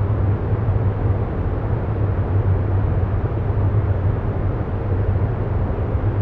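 Steady low rumbling noise with a constant deep hum: the ambient background sound bed that runs under the meditation affirmations.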